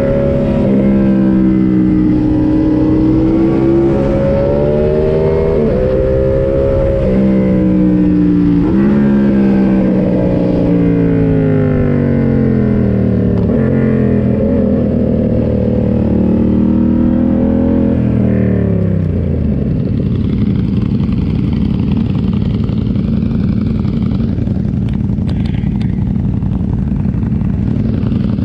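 Yamaha MT-07's parallel-twin engine revving up and dropping back several times as the gears change, then winding down about two-thirds through and settling to a low, steady run.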